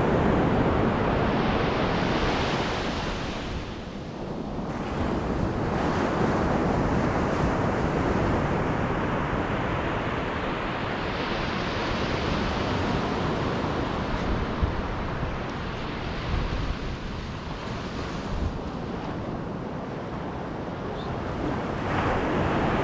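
Ocean surf breaking and washing up the beach in slow swells that rise and fall every few seconds, with wind buffeting the microphone.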